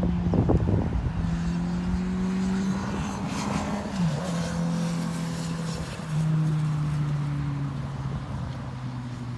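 An engine running steadily, its pitch dropping in steps a few times, with a few knocks in the first second.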